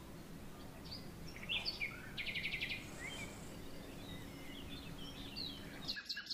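Faint birds chirping, with a short rapid trill about two seconds in and scattered chirps after, over a low steady hum.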